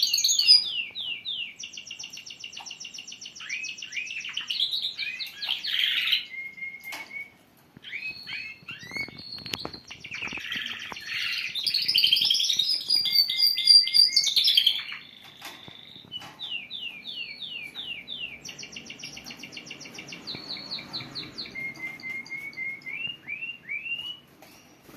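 Canaries singing: fast trills and rolls of short repeated notes. The song is loudest at the start and again about halfway, pauses briefly, and is softer in the last third.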